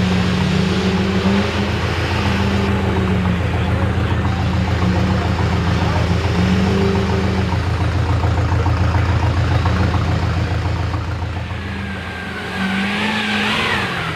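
Diesel engine of a Chevy mega mud truck running with uneven revving, a deep steady drone under a wavering note. Near the end the note swells briefly.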